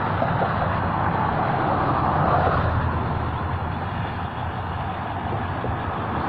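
Road traffic: the steady noise of passing cars, swelling a little about two seconds in.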